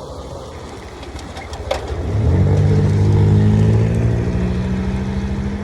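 Small single-cylinder engine of a Grom-clone motorcycle running on the road. From about two seconds in, a loud, steady engine drone swells up and holds at an even pitch.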